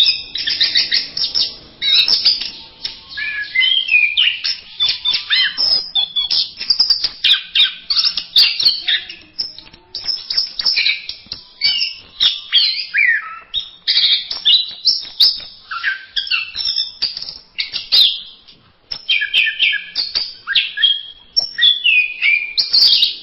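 Orange-headed thrush (anis merah) in a continuous, rapid, varied song of high chirps, trills and quick up-and-down whistles, a trained "masteran" song full of phrases copied from other birds.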